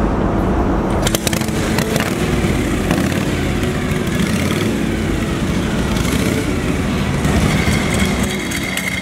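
Carbureted Harley-Davidson V-twin motorcycle engines running loudly.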